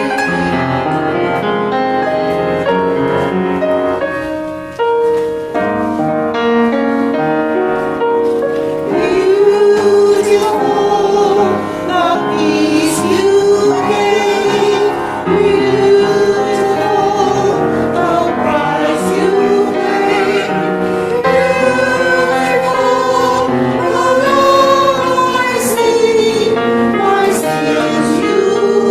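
Choir singing a sacred song with instrumental accompaniment, holding long notes; the singing grows louder about nine seconds in.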